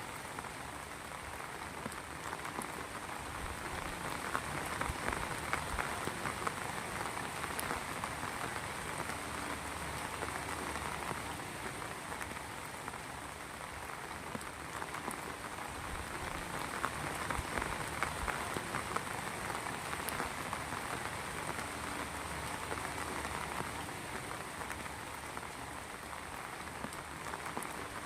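Heavy rain falling steadily, a dense patter of drops on surfaces that swells and eases a little over the seconds.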